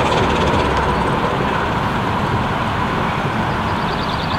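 Steam-hauled 15-inch gauge park railway train running along the track: a steady rumble and rail noise from the small locomotive and its carriages, fading slowly.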